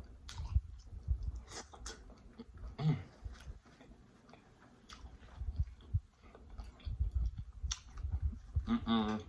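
Close-miked chewing of food, with wet mouth clicks and soft low thuds, and a short hummed voice sound near the end.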